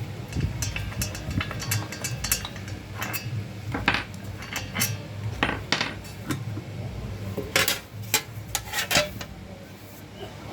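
Irregular clinks and clatter of small hard objects being handled, with a steady low hum underneath.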